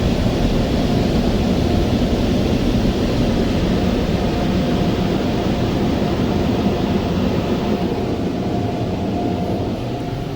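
Car wash's vintage Sherman dryer blowers running: a loud, steady rush of air with a faint whine, easing off slightly near the end.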